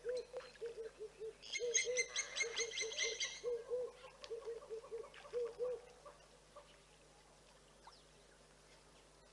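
Wild birds calling: a low hooting call of short notes repeated quickly, about three or four a second in small groups. For about two seconds a harsher, rapidly pulsing chattering call joins in and is the loudest sound. All calling stops about six seconds in.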